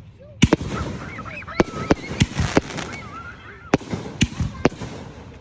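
Consumer fireworks going off in a quick series of sharp bangs, about nine in all, with crackle and hiss between them.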